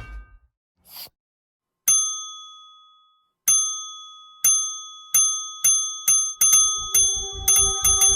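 A bright bell-like ding struck again and again, slowly at first and then faster and faster, each strike ringing out on the same clear pitches; a short swish comes about a second in, and a low pulsing tone with bass beats joins in near the end, building like an intro sting.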